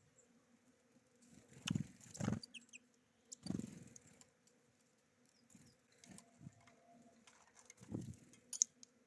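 Small birds at a feeder: a few soft thumps and flutters as they land and move about, with faint short high notes and a brief chirp near the end.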